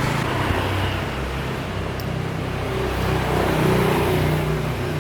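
An engine running steadily, with a low, even hum under a broad noisy rush.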